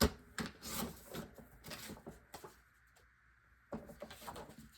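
Cardstock pieces being handled on a craft table: a sharp tap at the start, then light clicks and paper rustles, a short pause, and more handling near the end.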